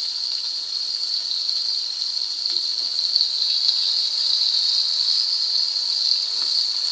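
Sliced onions and chopped tomatoes frying in hot oil in a steel karahi, a steady, even sizzle.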